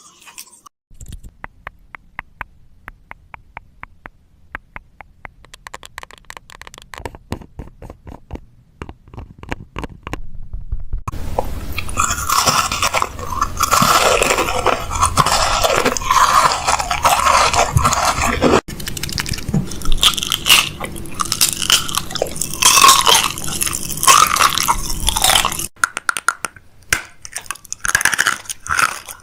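Close-miked ASMR crunching sounds: first a run of separate, evenly spaced clicks, about two a second. About eleven seconds in, a dense, loud crunching and crackling starts and lasts some fifteen seconds, then gives way to scattered clicks again.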